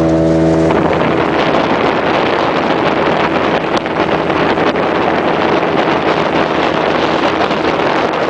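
A small motorboat's engine running at speed under a loud steady rush of wind and water noise on the microphone; the engine's hum drops back under the rush about a second in and stays faint.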